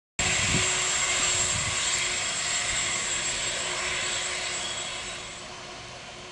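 Boeing 747 jet engines running loud, with a steady noise and a high whine, cutting in suddenly and fading away about five seconds in.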